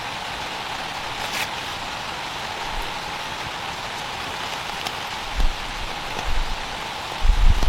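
Steady rain, an even hiss with the odd single drop standing out. Low rumbling thumps come in a few times in the last couple of seconds.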